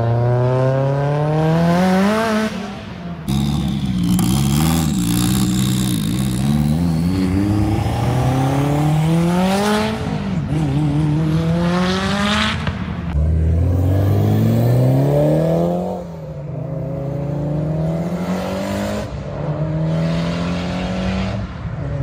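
Tuned performance car engines accelerating hard, the revs climbing in repeated runs, each broken off by a gear change. The sound changes abruptly a few times as one car's recording gives way to another.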